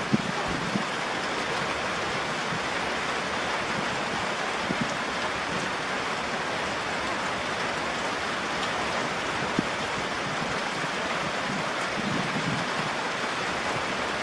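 Steady rain falling, with a few sharper drop hits standing out now and then.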